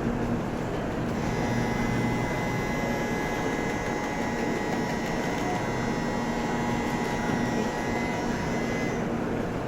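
An 8-car Shinkansen train pulling out of the station: a steady electric whine over a low rumble. The whine starts about a second in and fades out near the end.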